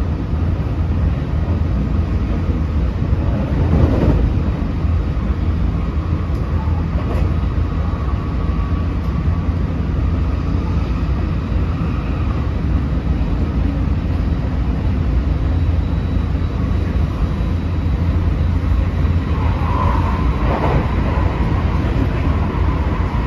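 Running sound inside a JR West 225 series electric train, in a motor car fitted with a Toshiba IGBT VVVF inverter. A steady low rumble of wheels on rail carries a faint steady tone.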